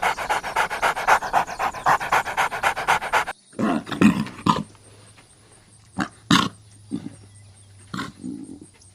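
Dog panting rapidly, about six quick breaths a second. After about three seconds it cuts off abruptly, followed by a few short, separate low animal sounds with pauses between them.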